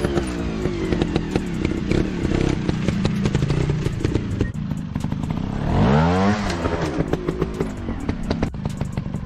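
Dirt bike engine running hard over rough ground, revving up sharply and dropping back about six seconds in, with clattering clicks throughout.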